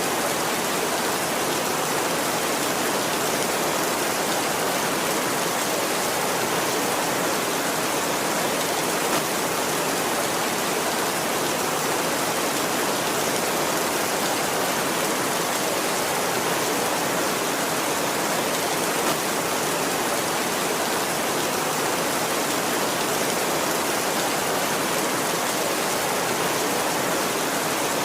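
Heavy rain falling steadily on a tin roof: a dense, even hiss that does not change.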